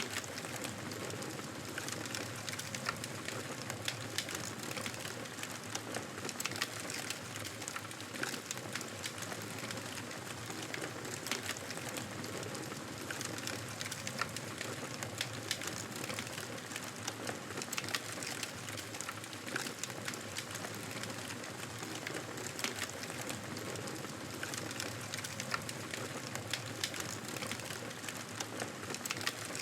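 Wood campfire burning: a steady hiss with frequent irregular sharp crackles and pops.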